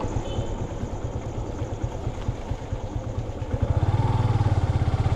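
Motorcycle engine running while riding, a low rumble that becomes a louder, evenly pulsing exhaust note about three and a half seconds in.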